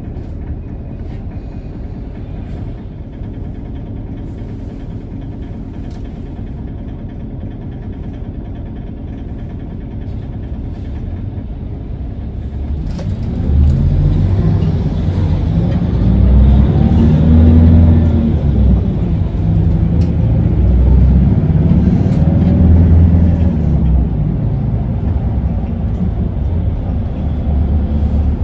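Isuzu Erga city bus's 5.2-litre four-cylinder turbo diesel running with a steady low rumble, as if idling. About halfway in it gets louder and the bus pulls away, the engine note rising and falling several times as it accelerates through the gears.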